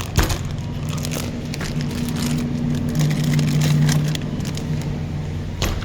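Supermarket background: a steady low hum, swelling for a second or so midway, with two sharp knocks, one just after the start and one near the end.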